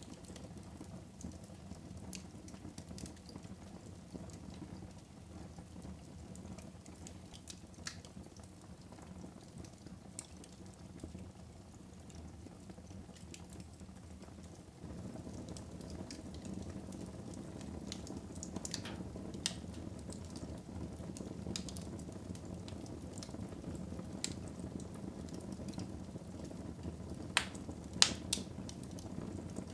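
Fire burning in a fireplace: a steady low rush of flames with scattered sharp crackles and pops. It gets louder about halfway through, and the loudest pops come near the end.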